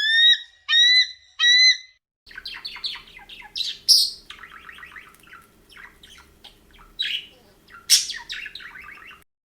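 Birds calling: three loud, evenly spaced whistled calls, then, after a cut about two seconds in, a busy chatter of many quick chirps and squawks over a faint steady hum.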